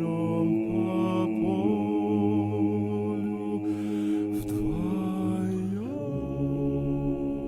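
Voices singing long held notes without instruments, the pitch stepping between notes and gliding upward about six seconds in.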